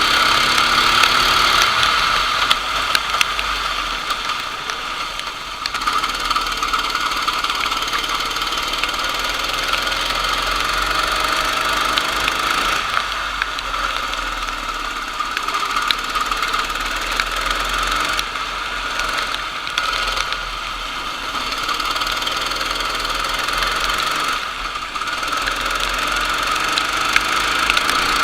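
Racing kart engine running hard with a steady, buzzy note. It eases off several times and picks up again, as when lifting for corners and accelerating out.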